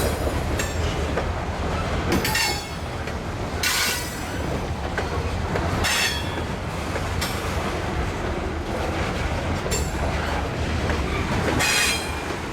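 Freight train rolling past at close range, a steady low rumble of cars on the rails broken by short wheel squeals several times, about every two seconds.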